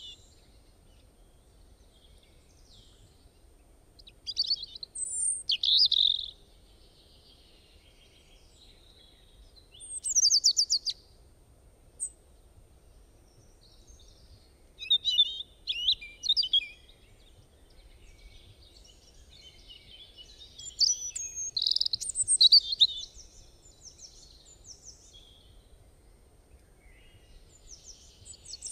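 A small songbird singing short bursts of high chirps and quick trills about every five or six seconds, with quiet between the phrases.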